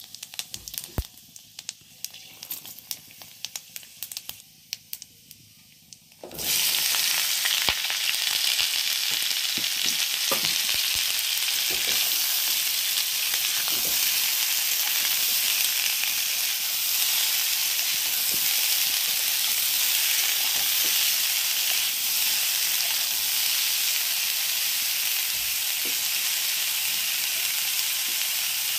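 Five-spice seeds (panch phoron) popping in hot mustard oil with scattered sharp crackles. About six seconds in, cubed cauliflower and potato go into the oil and a loud, steady sizzle starts, with a spatula stirring and knocking against the pan.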